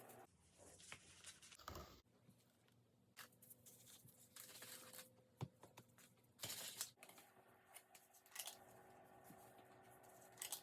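Faint kitchen handling sounds during food preparation: scattered short rustles, like something being torn or crinkled, and a few light clicks.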